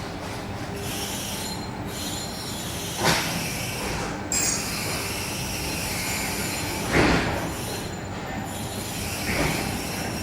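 ED4M electric train's wheels running slowly on the rails with a thin, high-pitched squeal. Four sharp knocks come from the wheels passing over track joints or points, about 3, 4, 7 and 9 seconds in.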